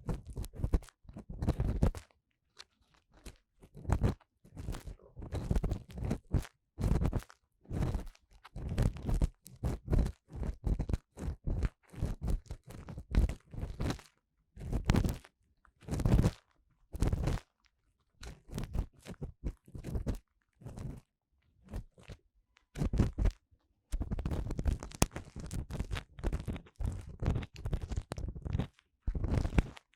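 Ear cleaning tool scraping and rubbing inside the ear of a 3Dio binaural microphone: irregular crunchy strokes with short pauses between them, running together more densely near the end.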